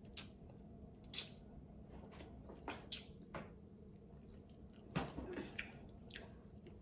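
Close-up eating sounds of a crab leg: scattered soft clicks of shell being handled and cracked, with wet squishing and chewing.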